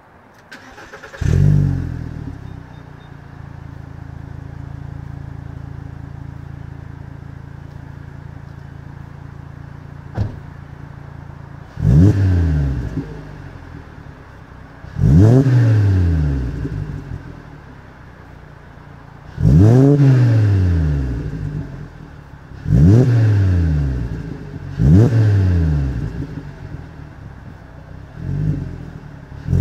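2008 Volkswagen Rabbit's 2.5-litre five-cylinder engine through an OBX cat-back exhaust and BSH cold air intake. It starts about a second in with a flare of revs, then idles steadily. From about halfway it is revved in about seven quick blips, each dropping back to idle.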